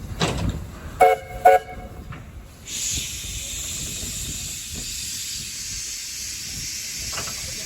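A steam locomotive gives two short toots on its whistle about a second in, then steam begins to hiss out steadily and keeps going.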